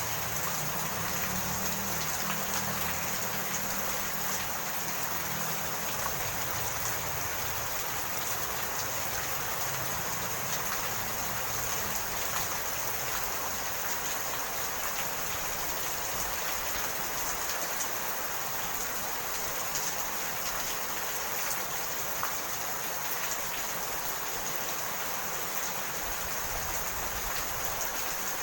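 Steady rain falling and pattering on surfaces, an even hiss. A low rumble underneath fades out over the first dozen seconds or so.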